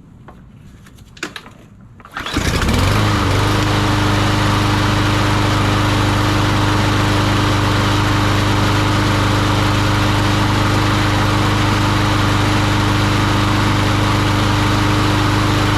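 Troy-Bilt TB230 lawn mower's Briggs & Stratton engine being pull-started: a pull or two, then it catches about two seconds in and settles into a steady run at an even pitch. It starts on fresh ethanol-free gas after a tune-up.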